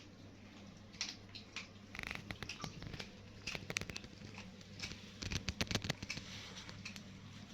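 Kittens eating: irregular small wet clicks and smacks of chewing and lapping, getting busier and louder near the middle and again about two-thirds of the way through. A steady low hum runs underneath.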